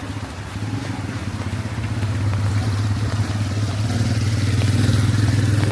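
Motorcycle engine running steadily, getting louder as it approaches and coming closest about five seconds in.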